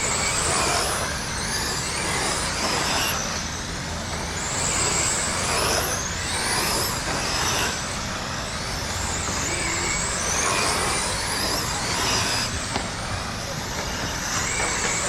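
A pack of electric RC late-model dirt oval cars racing, several motor whines overlapping and rising and falling in pitch every second or two as the cars speed up and slow down around the oval, over a steady low rumble.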